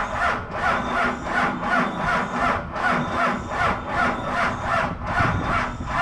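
Cummins diesel engine cranking slowly on the starter without catching, each compression stroke a rasping pulse about two and a half times a second. The weak jump box is not turning the cold engine over fast enough to fire.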